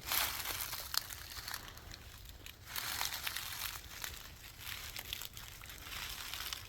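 Footsteps crunching and rustling through dry leaves and brush on the woodland floor, with small crackles of twigs. It is loudest right at the start and again about three seconds in.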